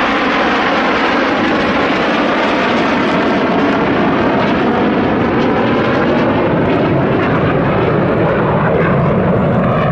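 BAE Hawk T1 jets flying past in formation, their turbofan engines making a loud, steady jet noise with faint sweeping shifts in pitch as they pass.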